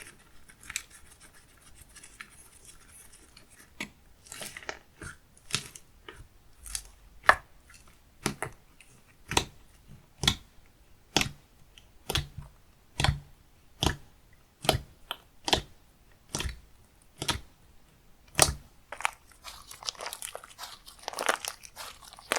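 Creamy, chewy slime being pressed and squished by hand, giving sharp sticky pops and clicks about once a second that turn into a denser crackle near the end.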